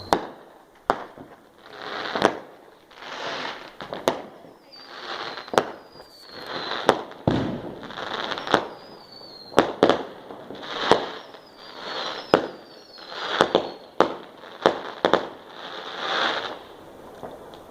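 Fireworks going off one after another: sharp bangs about once a second, hissing fizzes between them, and short falling whistles.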